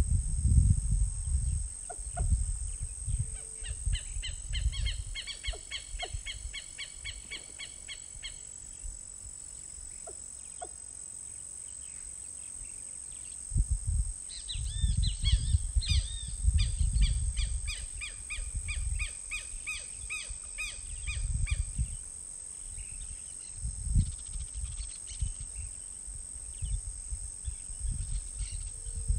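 Outdoor natural soundscape: a steady high-pitched insect drone underneath, and a bird giving two long bouts of rapidly repeated calls, one about four seconds in and another from about fourteen seconds to twenty-two. Irregular low rumbling gusts come and go.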